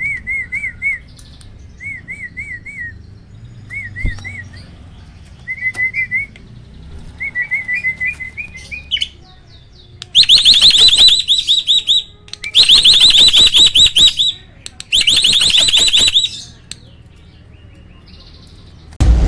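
Hybrid starling (Asian pied starling × black-winged myna) singing: short, softer warbled phrases repeated several times, then three loud, rapid rolling trills about two seconds apart, the fast-fire 'roll' song.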